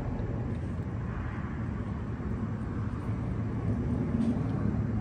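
Steady low rumble of a motor vehicle, with no sharp events.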